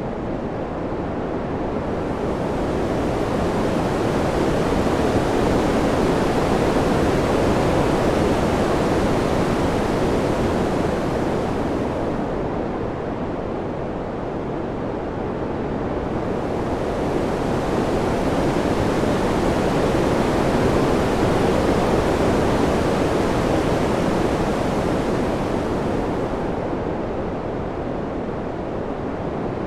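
Steady rushing wind noise with no gusts or other sounds, swelling slowly louder and softer twice, the hiss thinning out between swells.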